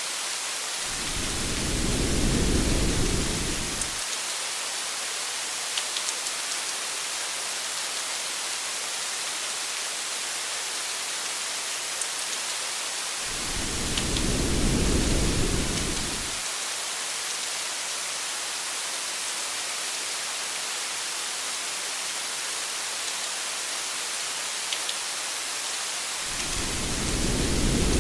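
Steady rain hiss, with three low rumbles of distant thunder, each swelling and fading over about three seconds, coming roughly every twelve seconds. A few single drops tick now and then.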